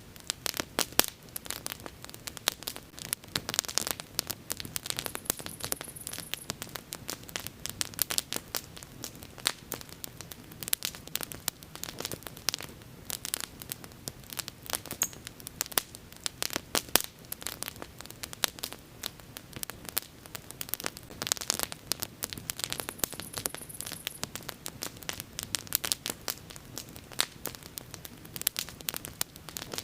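Wood bonfire crackling, a dense run of irregular snaps and pops over a faint hiss.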